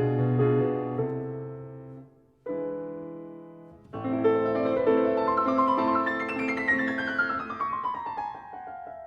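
Background piano music: notes fade out about two seconds in, a chord rings and dies away, then a new phrase begins with a long descending run of notes.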